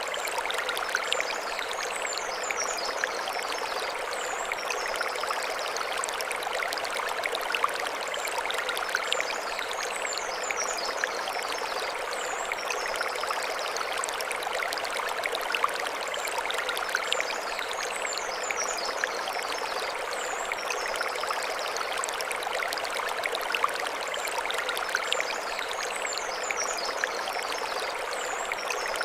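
Mountain stream flowing steadily over stones. A high chirping call recurs about every eight seconds above the water.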